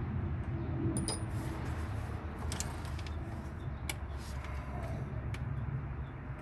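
Scattered sharp metallic clicks and clinks of hand tools working the throttle-body bolts, over a steady low hum.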